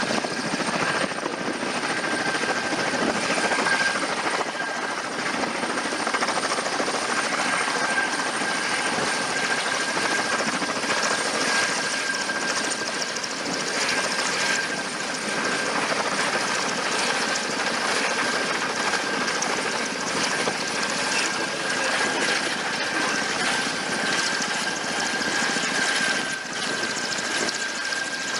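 Helicopter running steadily close by: an even rush of rotor and engine noise with a thin, steady high whine, neither rising nor falling.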